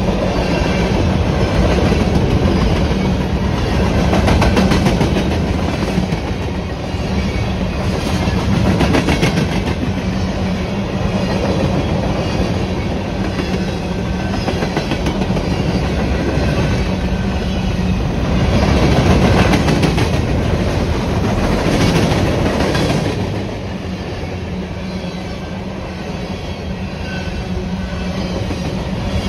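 Freight train's open-top hopper cars rolling past close by: a steady rumble of steel wheels on the rails with rapid clicking, easing off a little about three-quarters of the way through.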